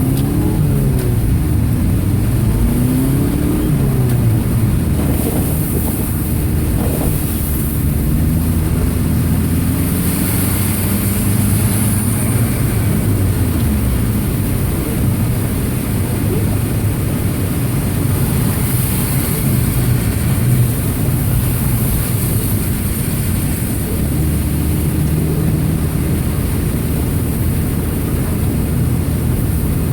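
Subaru Impreza's EJ25 flat-four engine running, its pitch rising and falling as the revs change, over a steady rushing noise.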